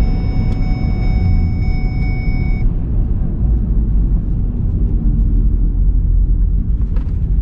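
Steady low rumble of a four-wheel-drive vehicle running, heard from inside the cabin, with a thin high whine that cuts off about two and a half seconds in.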